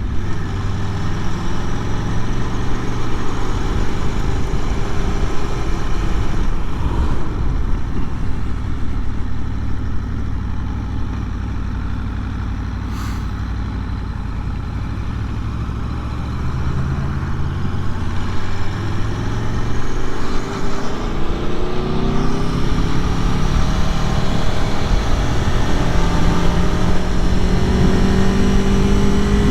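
Aprilia Tuono V4 Factory's V4 engine running under way on the ride. It holds a steadier, slightly quieter note through the middle, then rises in pitch as the bike accelerates over the last several seconds.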